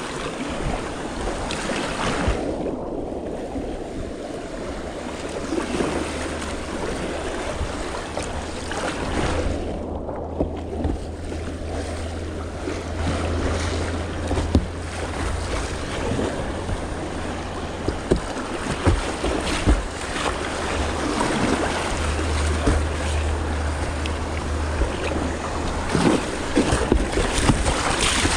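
Whitewater river water rushing and splashing around a kayak, with scattered sharp splashes and knocks from paddle strokes. There is a steady low rumble of wind on the microphone, and twice the hiss of the water briefly dulls.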